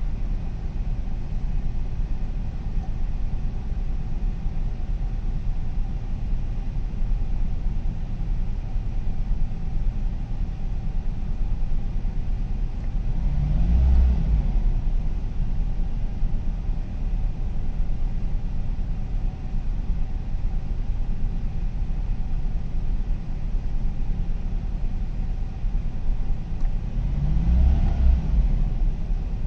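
1989 Jaguar XJ-S engine running at idle shortly after a cold start. The throttle is blipped twice, about halfway through and near the end, each time a brief rise and fall in engine pitch.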